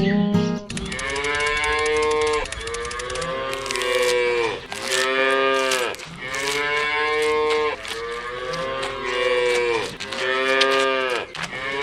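Cow mooing over and over: a string of long, drawn-out moos, each rising and falling in pitch, with short breaks between them.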